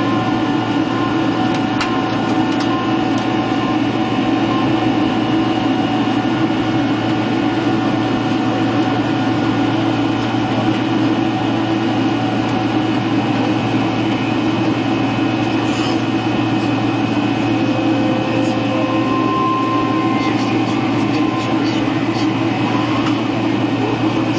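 Steady cabin drone of a Boeing 767-300ER airliner in flight: engine and airflow noise heard from inside the cabin, with a constant low hum and a few steady tones over it.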